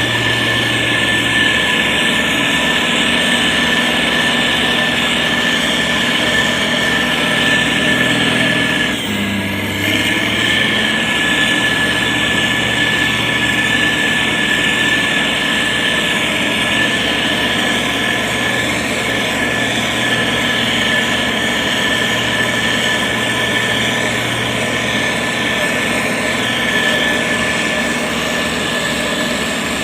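Engine of a heavy road-construction machine running steadily, with a constant whine over it; the engine note dips briefly and shifts pitch about nine seconds in.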